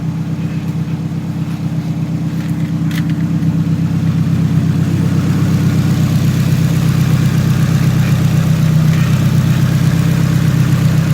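Nissan SR20 turbocharged four-cylinder engine idling steadily, getting louder over the first few seconds, with a strange rattle at idle that the owner believes comes from the newly fitted Tomei turbo setup.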